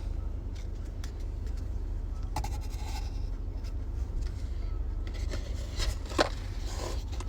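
Baseball cards and pack wrappers being handled: light scrapes and rustles, with sharper crinkles about two and a half and six seconds in, over a steady low rumble inside a car.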